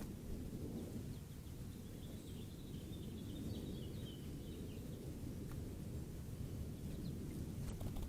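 Steady low outdoor rumble, with a faint run of quick high bird chirps and twitters about two to four seconds in.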